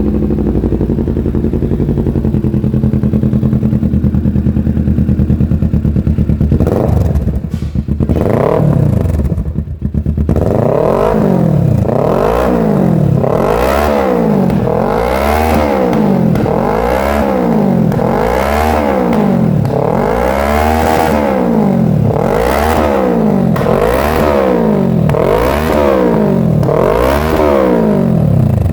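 Kawasaki Ninja 650's parallel-twin engine through a full Mexx Taylor Made aftermarket exhaust. It idles steadily for several seconds, gives a couple of short blips, then is revved up and down over and over, about one rev every second and a half.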